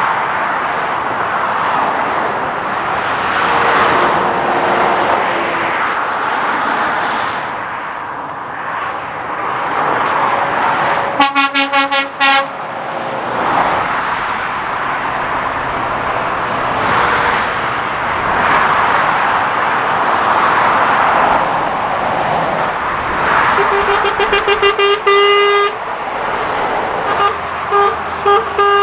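Lorries and cars passing at speed on a dual carriageway, swelling and fading one after another. A horn sounds about eleven seconds in, a quick string of short toots ending in a brief held note, and again from about two-thirds of the way through as a pulsing blast followed by rapid repeated toots.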